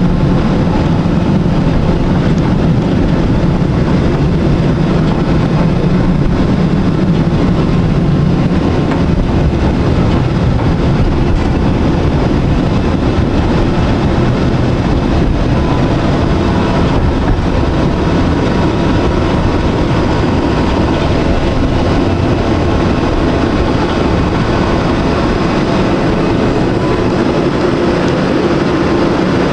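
Electric tram running along its rails: a steady rumble of wheels and motor, with a faint high whine joining about halfway through.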